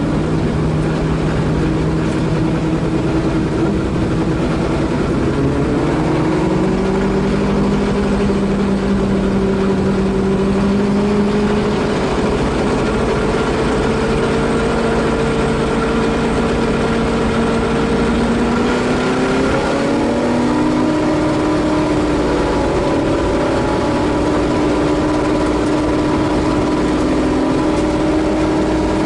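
Holden Torana A9X race car's 5.0-litre V8 heard from inside the car at racing speed, its note climbing slowly for most of the stretch and then stepping up about two-thirds of the way through, over steady road and wind noise.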